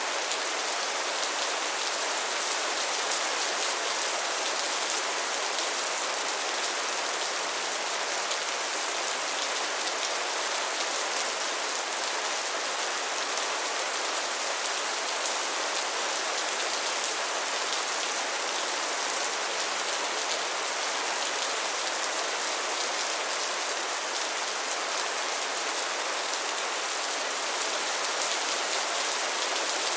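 Steady rain falling, with a constant hiss and fine pattering of drops on a surface.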